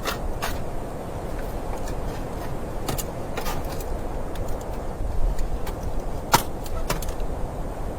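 Steady low rumble of wind, with scattered sharp clicks or ticks; the loudest click comes about six seconds in.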